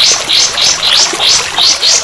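Recorded songbird tutor song: short, high chirps repeated evenly at about four a second, over a steady hiss of running water.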